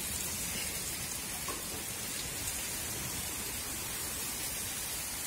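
Heavy rain falling steadily, an even, unbroken hiss of rain on wet ground and surfaces.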